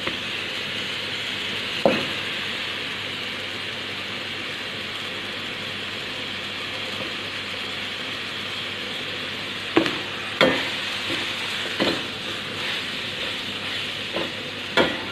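Chicken, potato and onion sizzling as they stir-fry in a wok. A metal ladle scrapes and knocks against the pan once about two seconds in, then several times in the last five seconds.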